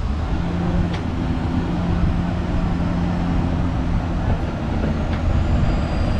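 Multi-car tour tram running, heard from aboard: a steady low engine hum under the rumble and rattle of the cars rolling along.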